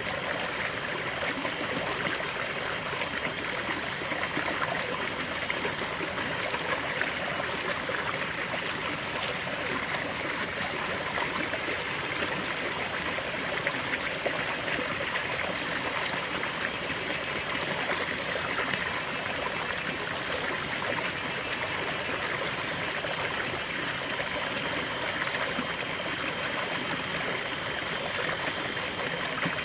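A small waterfall and stream flowing, a steady even splashing and rushing of water over rocks.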